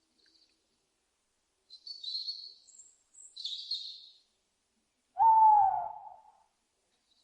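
Owl calls: two high screeches about a second apart, then a louder, lower hoot about five seconds in that falls slightly in pitch.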